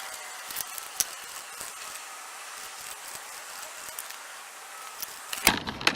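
Scattered light clicks and taps of hand tools and metal parts being handled while a handlebar clamp is bolted back together, over a steady hiss, with one sharper click near the end.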